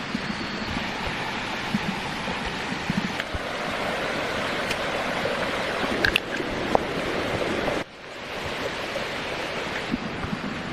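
Steady rushing of flowing water, like a forest stream, with a few small knocks over it. The sound breaks off abruptly for a moment about eight seconds in, then resumes.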